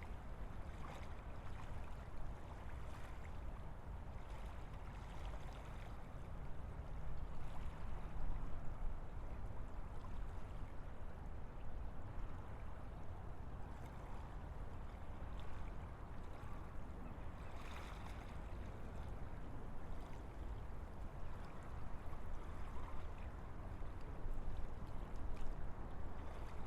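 Wind blowing steadily through forest trees: a continuous rushing with a deep low rumble, swelling a little in gusts and easing again.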